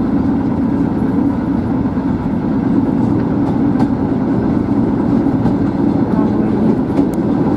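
Steady rumble of a train running on the rails, heard from inside a moving train, with a freight train of container flat wagons running alongside on the next track.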